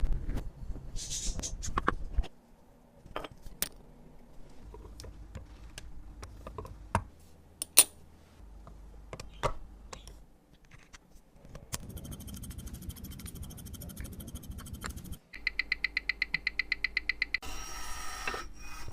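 Small metal clicks, taps and light scrapes of watchmaker's tools working on a Tissot wristwatch. About two-thirds of the way in there is a stretch of fine rapid ticking, then a run of even clicks about ten a second, then a short scrape.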